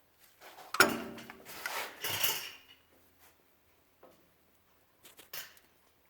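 Metal hand tools clanking and rattling as an oil pan drain plug is tightened, with a sharp metallic knock about a second in, then a few faint clicks.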